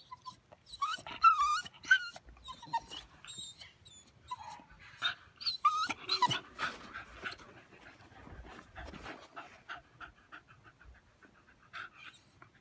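Blue Staffordshire Bull Terrier puppy crying in short, wavering high-pitched whines, then panting in quick short breaths in the second half.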